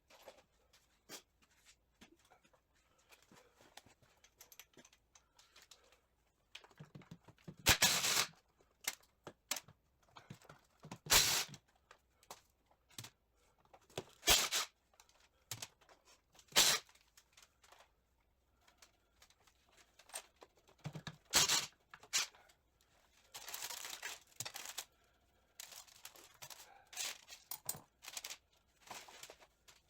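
Hand tools working bolts on a Triumph TR6 gearbox casing: scattered small metal clicks and about a dozen short rasping bursts, the loudest about 8 and 11 seconds in and again from about 21 to 25 seconds in.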